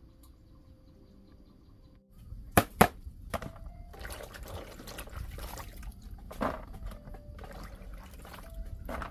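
Water pouring and splashing, starting about two seconds in, with two sharp knocks shortly after and scattered clatter through it.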